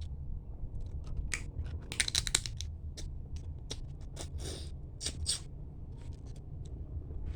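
Mud crab shell being cracked and picked apart by hand while eating: a run of sharp clicks and crackles, densest about two seconds in, with two longer scraping rustles later on.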